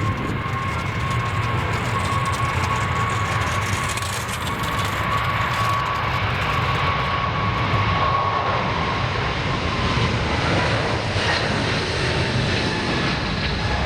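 Jet airliner's engines passing close by: a steady whine over a low rumble and rushing noise, the whine fading about ten seconds in as the broader roar grows.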